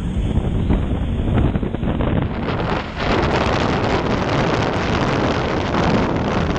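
Wind buffeting the microphone of a jet ski at speed, over the low rumble of the craft and its water. About three seconds in, a louder rushing hiss sets in.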